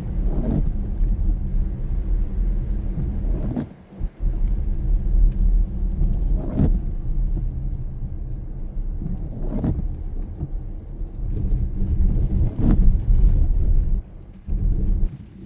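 Car driving on a wet road: steady low engine and road rumble, with a windshield wiper sweep about every three seconds.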